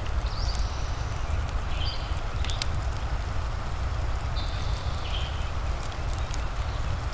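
Wood fire crackling with scattered sharp pops over a steady low rumble and soft rain hiss. Short high-pitched chirps come in every second or two.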